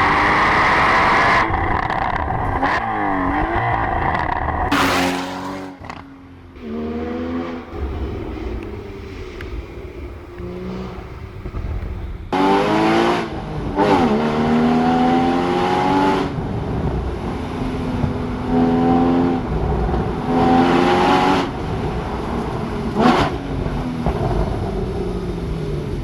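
A supercar engine and exhaust accelerating hard through the gears. The pitch climbs and drops back at each upshift, with quick rev-matched downshift blips in between and a quieter stretch of part-throttle running partway through.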